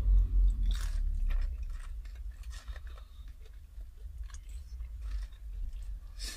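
Two people biting and chewing crispy fried chicken wings, with irregular small crunches and mouth clicks over a low steady rumble.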